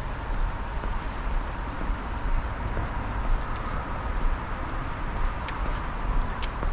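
Steady low rumble of distant road traffic, with two faint clicks near the end.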